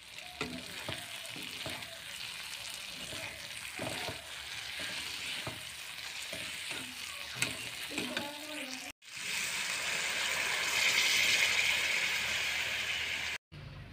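Pigeon meat, pumpkin and masala sizzling in a kadai, stirred and scraped with a spatula. After a cut about nine seconds in, water is poured into the hot pan with a steady, louder rush.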